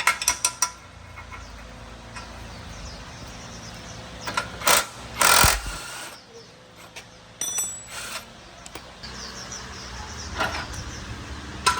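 Metal parts being handled in a workshop: a quick run of ringing metallic clinks at the start, then scattered heavier knocks, the loudest about halfway through.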